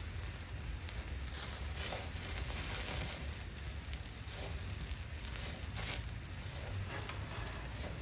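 Wood campfire hissing and crackling in the rain, a steady hiss with a few sharp pops.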